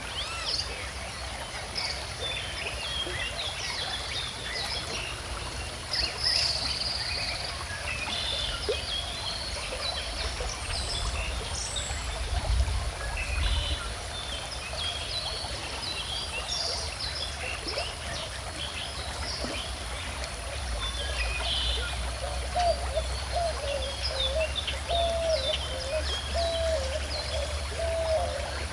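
A calm stream flowing, with many birds chirping and singing over it. A lower wavering call joins about three-quarters of the way through, and a low rumble swells now and then.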